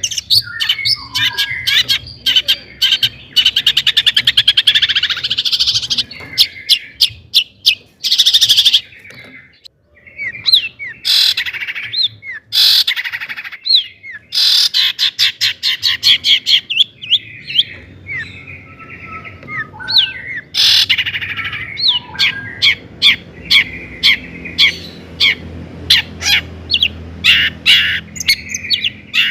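Long-tailed shrike (cendet) singing at full volume in the mimicry-filled 'isian' style: a rapid string of sharp chirps and fast rattling trills, with a brief lull about ten seconds in.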